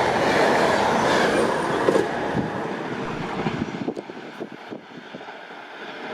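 A train running along the tracks, its rumble loud at first and dying away over about two seconds. A few sharp clicks from the rails follow as it fades.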